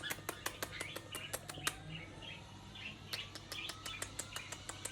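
An Indian ringneck parrot making soft, quiet chirps, with a quick, irregular run of sharp clicks.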